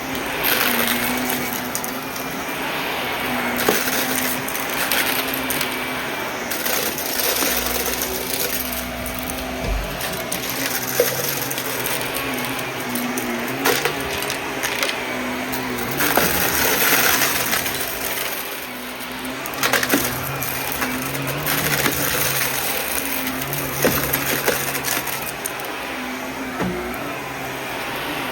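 A vacuum cleaner runs steadily with a hum and hiss whose pitch shifts partway through. Scattered crackles and clicks of debris rattle up through it.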